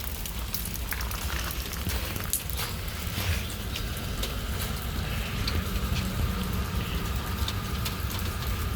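Steady rain falling: an even hiss with many small, scattered drip ticks.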